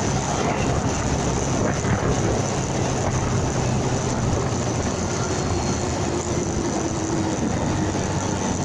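Motorcycle engine running steadily under way, with a low steady hum, mixed with continuous wind and road rush on the dashcam's microphone.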